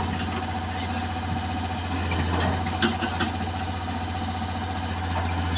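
Heavy diesel engine running steadily at idle, with a few light clicks and knocks around the middle.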